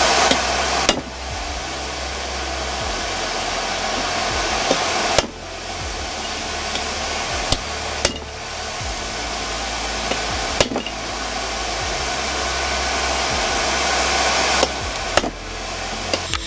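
A forge's air blower runs with a steady rush of air, broken by several sharp knocks, some in pairs about half a second apart.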